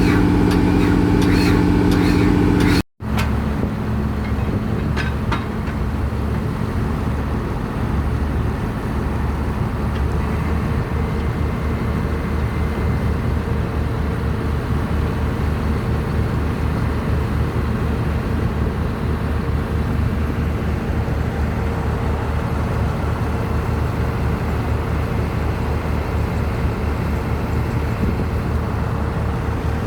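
Large diesel engine of heavy piling equipment running steadily. An abrupt cut about three seconds in switches to a lower, even engine hum that carries on.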